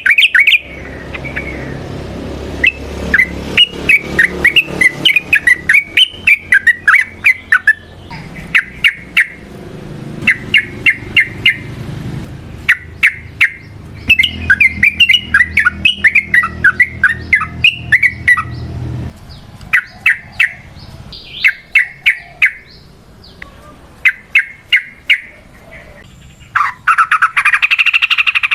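Yellow-vented bulbul singing: phrase after phrase of quick, bubbly notes with short pauses between them. Near the end comes a harsher, denser chattering burst.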